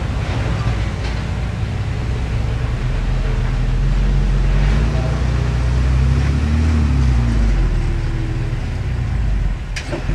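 Diesel engine of earthmoving machinery running under load, its pitch shifting up and down in the middle, with a sharp click near the end.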